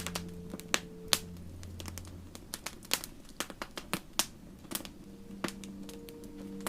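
Wood fire crackling and popping: irregular sharp snaps, a few of them loud, over a low hiss. Soft, sustained ambient music notes fade out in the first two seconds, and new ones come in again after about five seconds.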